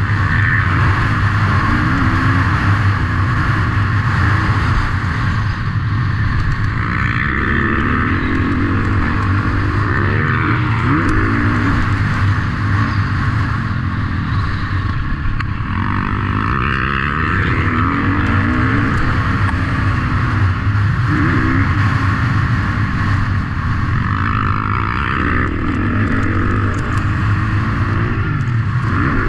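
Motocross motorcycle engines revving, their pitch rising and falling again and again over a steady low drone.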